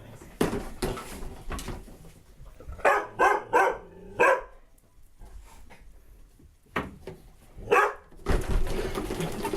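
Dog barking at an unfamiliar full-size skeleton prop: single barks, then a quick run of three or four about three seconds in, then two more spaced barks. A scuffling noise starts near the end.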